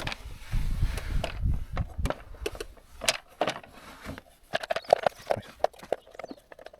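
Scattered sharp clicks and knocks of hand work on the engine: the bottom timing belt cover and its bolts being handled and fitted. There is a low rumble from about half a second to two seconds in.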